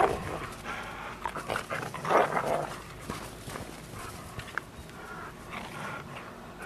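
Two dogs playing, with irregular dog vocal sounds and a louder burst about two seconds in.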